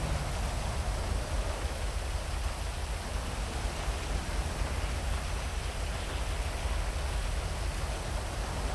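Heavy rain falling steadily, an even hiss with a constant low rumble beneath it.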